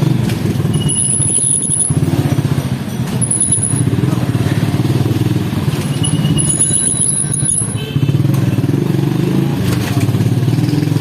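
Small motorcycle engine running steadily while the bike rides along, with brief high-pitched squeals a few times.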